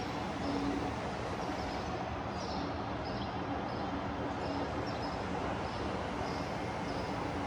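Street ambience: a steady city hum of distant traffic and building machinery, with small birds chirping briefly over and over.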